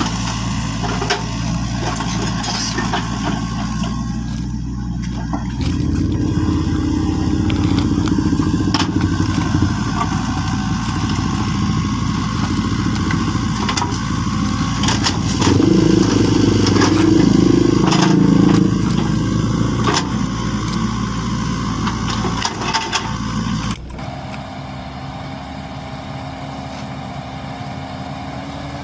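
A small vehicle engine runs steadily, with scattered clicks and knocks over it. It grows louder about six seconds in, and again for a few seconds past the middle, then switches suddenly to a quieter, even running sound near the end.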